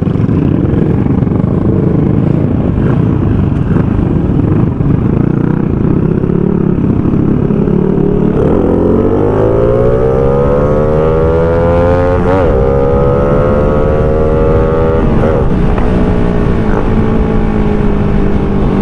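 Yamaha Sirius underbone motorcycle's single-cylinder engine under way, heard from the rider's seat over rushing wind noise. About eight seconds in its pitch climbs steadily as it accelerates, holds with two brief dips, then slowly falls away.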